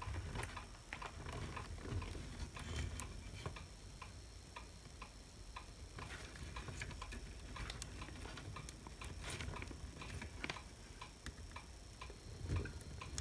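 Faint, irregular clicks and taps of small parts and tools being handled while a wire is worked out of a hot air gun handle.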